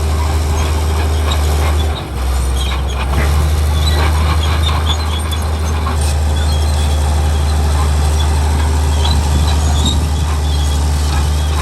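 Heavy diesel machinery running steadily with a deep, loud drone, with scattered metallic clanks and rattles over it, mostly in the first half.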